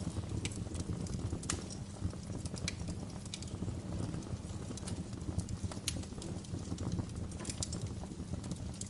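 Wood fire burning in a fireplace and crackling: irregular sharp pops and snaps, a few louder than the rest, over a steady low rumble of the flames.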